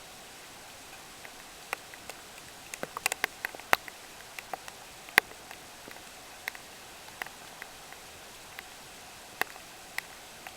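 Heavy typhoon rain: irregular sharp taps of drops striking a nearby surface, with a quick cluster of taps about three seconds in, over a faint steady hiss.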